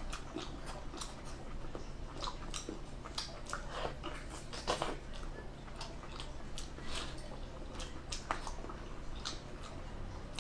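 Close-up wet chewing and mouth sounds of someone eating a whole octopus coated in chili oil, with irregular soft smacks and clicks.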